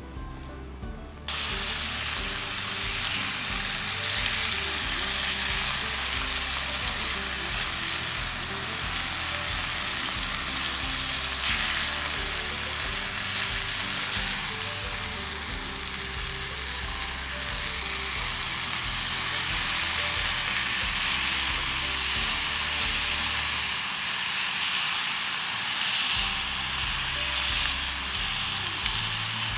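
Food sizzling and frying in a cast iron skillet, a steady hiss that cuts in suddenly about a second in.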